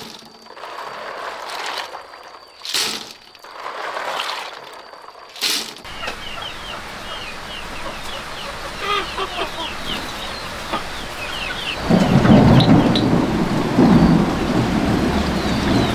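About five sharp strikes, then steady rain with chickens or chicks cheeping. A loud rumble of thunder and heavier rain set in about twelve seconds in.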